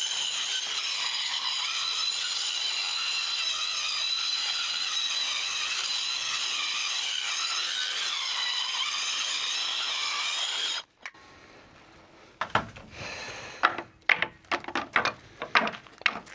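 Power saw cutting through old timber decking boards along a marked line, a steady high whine with a rough edge for about eleven seconds that stops abruptly. After a short pause comes a run of sharp wooden knocks and clatters.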